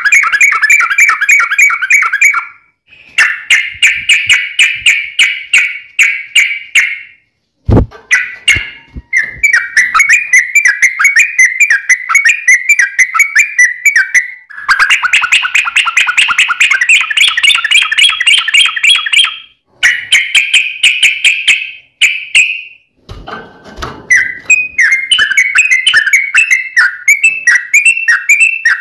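Yellow-vented bulbul (trucukan) singing long runs of rapid, bubbling chattering notes, the long 'ropel' song used as a lure to make other trucuk birds answer. The runs come one after another with brief pauses. There is a single sharp click about eight seconds in.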